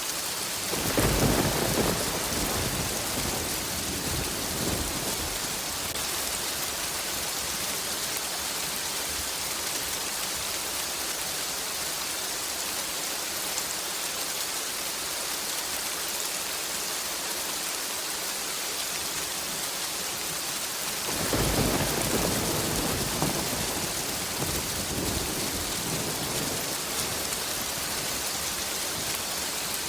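Steady heavy rain hissing, with two rolls of thunder: one rumbling up about a second in and fading over a few seconds, and a second, longer one starting about two-thirds of the way through and trailing off.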